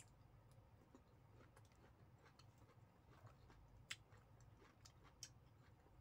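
Near silence: faint chewing of half-cooked blanched cauliflower, with small scattered mouth clicks, a sharper one about four seconds in and another just past five seconds, over a faint low hum.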